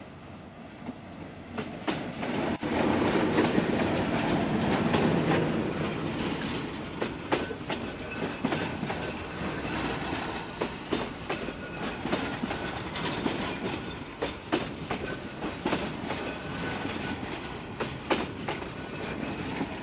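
A Bangladesh Railway diesel locomotive passing close by, loudest a few seconds in, followed by passenger coaches rolling past with repeated clacks of wheels over the rail joints.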